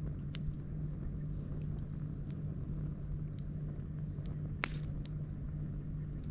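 Wood campfire crackling, with scattered sharp pops, the loudest about four and a half seconds in, over a steady low drone.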